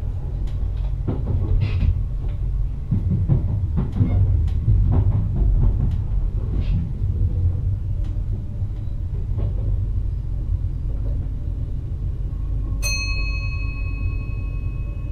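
NS VIRM double-deck electric train heard from its driver's cab while running: a steady low rumble with repeated wheel knocks and clatter over the track, busiest in the first half. About 13 seconds in, a ringing tone with several pitches starts suddenly and keeps sounding.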